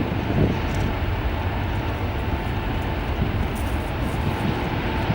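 Airbus A380's four jet engines running, a steady rumble.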